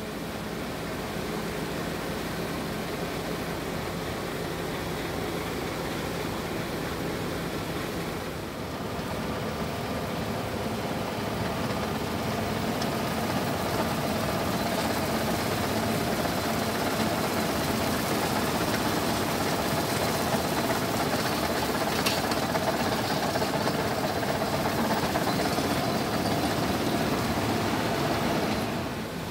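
Claas Lexion 770 TT combine harvester running steadily under load while harvesting soybeans, engine and threshing machinery together; it grows a little louder about halfway through.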